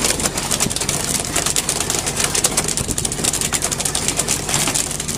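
Fishing boat's engine running steadily under a constant hiss of wind and sea, with frequent sharp clicks and knocks over it.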